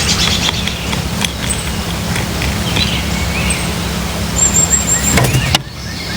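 Wild birds chirping and calling in short, high notes, with one brief thin whistle about four seconds in, over a steady low hum.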